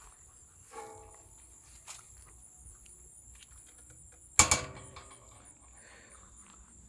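Crickets trilling steadily in the background, with a short squeak about a second in. About four and a half seconds in comes a single loud bang with a brief ringing tail.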